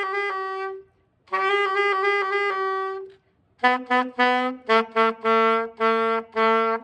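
Saxophone playing a beginner exercise: two long held notes, then after a short break about eight shorter tongued notes on a lower pitch, the last one held.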